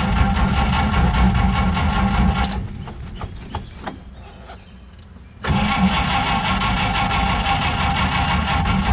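Flathead straight-six of a 1950 Oldsmobile 76 being cranked over by its starter on a 6-volt battery in a cold start, twice: about two and a half seconds, a pause with a few clicks, then again for about three and a half seconds. The engine is fed only by gas poured into the carburettor and does not keep running.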